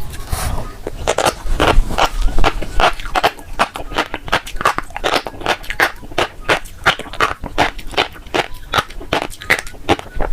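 Close-miked eating of fish roe: rapid wet clicks and pops as the roe beads burst in the mouth and are chewed, about three or four a second.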